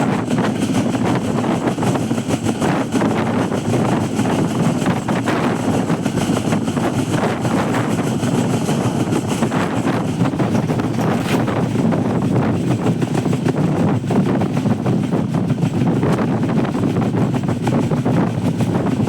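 Passenger train running along the track, heard from aboard as a steady rumble, with wind buffeting the microphone.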